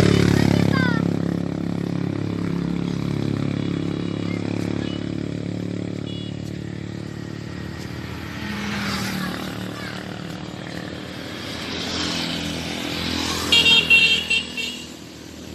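Road traffic: a motor vehicle's engine passes close and fades away, with engine rumble continuing. A brief loud high-pitched sound comes near the end.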